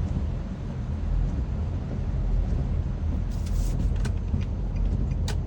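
Typhoon wind buffeting the microphone: a steady, gusting low rumble, with a few short crackles in the second half.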